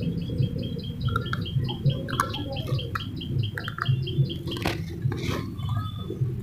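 A bird chirping in a fast, even series of short high notes, about five a second, over a steady low rumble of background noise.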